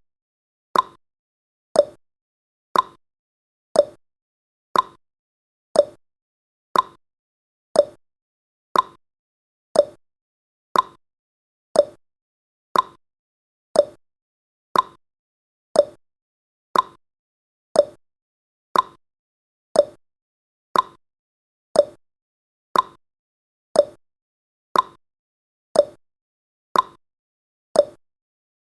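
Clock-tick sound effect of a countdown timer: one short, sharp tick each second, evenly paced.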